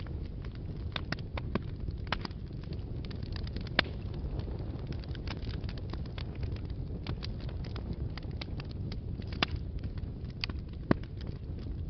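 Wood fire burning in a fireplace: a steady low rumble of flames with irregular crackles and pops, a few sharper pops standing out near the middle and toward the end.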